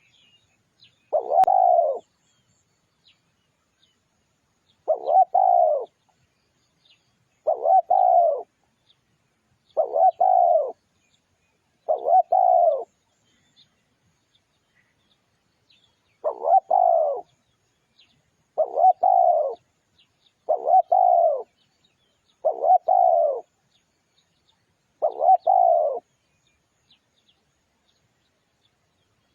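Spotted dove cooing: ten short, low phrases, one every two to three seconds, with a longer pause about halfway through.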